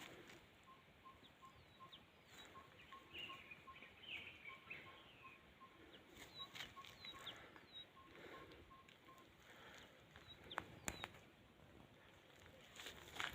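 Faint bird calls: a soft note repeated evenly about two to three times a second for most of the stretch, with a few short high chirps over it.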